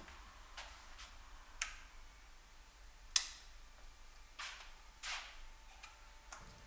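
A series of light clicks and taps at uneven intervals, with one sharper click about three seconds in.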